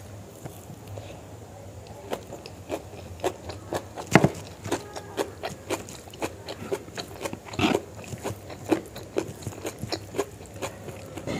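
Close-miked chewing of chicken gizzard curry and rice: a steady run of irregular mouth clicks and smacks, loudest about four seconds in and again near eight seconds.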